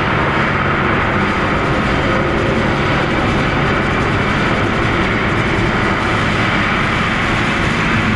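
Very large steel spring bolted to a wooden beam, picked up by a contact mic: a loud, steady, dense noisy drone with a faint low hum underneath.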